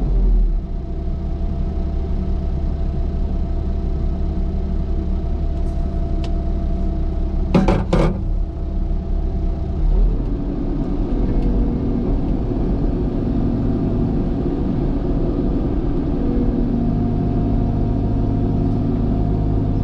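Diesel engine of a heavy earthmoving machine running steadily while working, its note changing about ten seconds in. There are two sharp knocks close together about eight seconds in.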